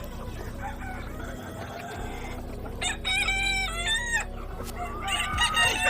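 Chicken calls, clucking and crowing, with two louder calls about three seconds in and near the end.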